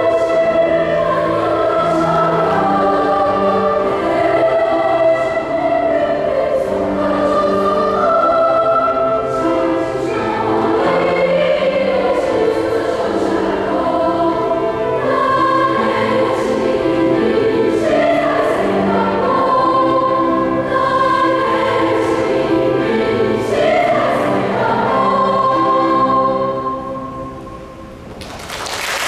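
A choir singing in parts, holding long notes, the piece closing about a second before the end; applause then breaks out.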